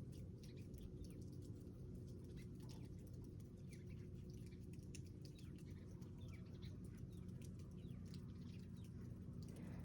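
Small songbirds chirping, many short quick calls overlapping throughout, faint, over a steady low hum.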